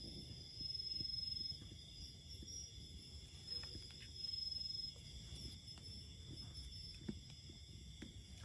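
Forest insects making a steady high-pitched buzz that swells twice, with a low rumble underneath and a few faint knocks.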